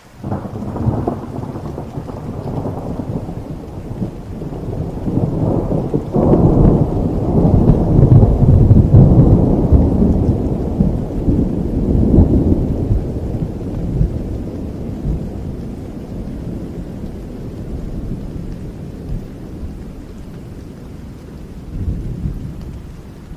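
Rolling thunder over steady rain. The thunder breaks in suddenly, builds to its loudest about eight to ten seconds in, then rumbles slowly away, with a smaller rumble near the end.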